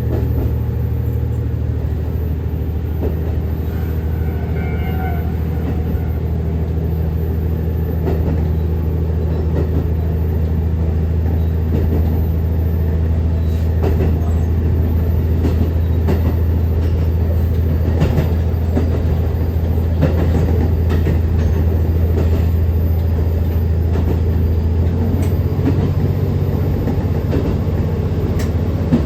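KiHa 150 diesel railcar under way: a steady low diesel engine drone, with the wheels clicking over rail joints from about eight seconds in.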